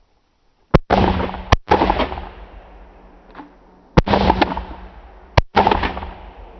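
Several hunters' shotguns firing in a rapid volley, in two bursts of overlapping blasts about a second in and about four seconds in. Each shot is followed by a long, fading echo.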